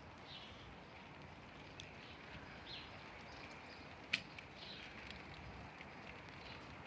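Faint outdoor ambience: a steady soft hiss of light rain, with a few faint bird chirps and a single sharp click about four seconds in.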